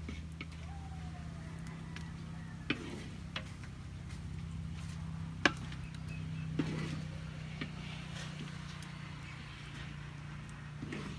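Scattered clicks and knocks of cooking utensils against a pot, the sharpest about five seconds in, over a steady low hum.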